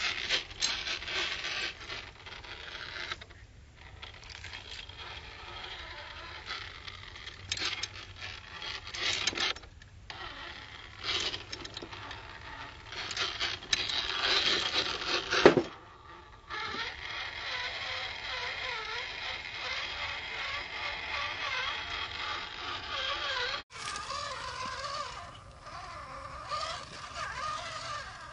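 Radio-controlled scale truck's electric motor and gearbox whining, rising and falling in pitch as it drives and pauses a few times.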